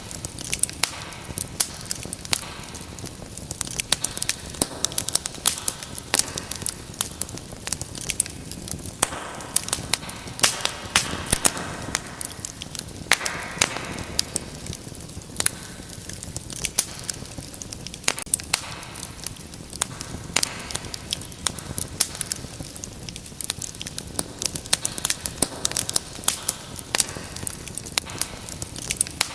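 Wood fire in a fireplace crackling, with frequent sharp, irregular pops over a steady hiss of burning.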